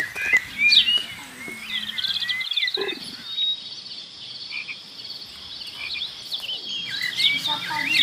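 Small birds chirping repeatedly in short, sweeping calls, with a steady high-pitched trill running through the middle.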